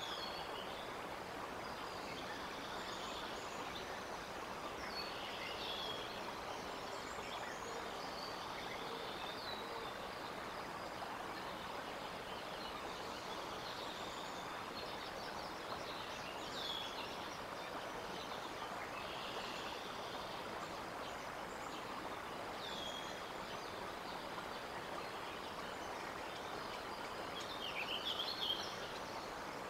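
Steady outdoor background hiss with small birds chirping, short hooked calls repeated every few seconds, and a brief flurry of chirps near the end.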